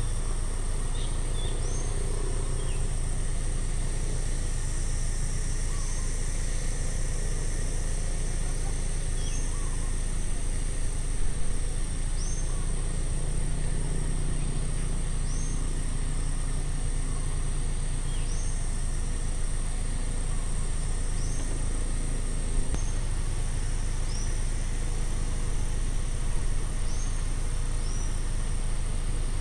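Outdoor ambience: a steady high insect buzz, a bird giving short repeated chirps every second or few, and a steady low rumble underneath.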